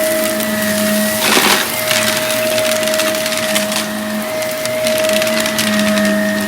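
Vacuum cleaner running steadily with a constant whine, crackling as it sucks up debris, with a louder rush of debris about a second and a half in.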